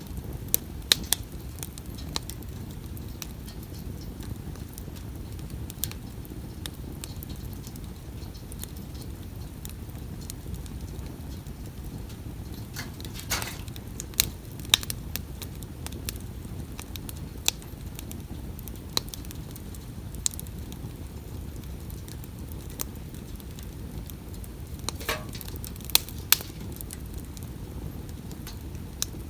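Wood campfire burning with a steady low rumble and sharp, irregular crackles and pops. Twice, about halfway and near the end, there is a brief hiss.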